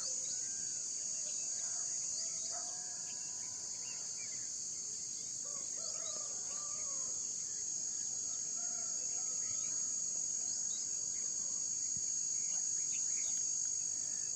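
Steady, high-pitched chorus of crickets trilling without a break, with faint scattered bird chirps and short whistles underneath.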